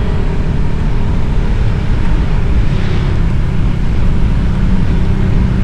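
Motorcycle on the move: a steady rush of wind noise with the engine running underneath at an even speed.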